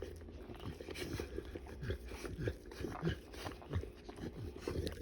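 Cane Corso in labor making short, low sounds over and over, a few a second, as she pushes to deliver a puppy.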